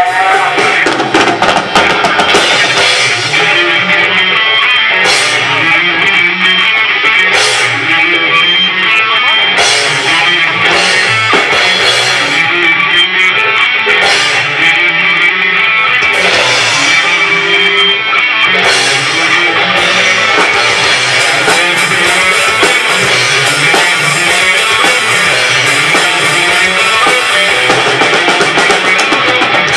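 Live rock band playing an instrumental passage: electric guitar over a drum kit, loud and steady, with no singing.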